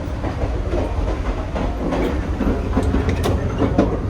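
Grand Canyon Railway passenger train running along the track: a steady low rumble of the rolling car, with a few sharp clicks of the wheels over the rails.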